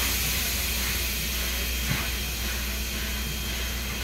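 Steady hiss and low hum of a train ride, with one short knock about two seconds in.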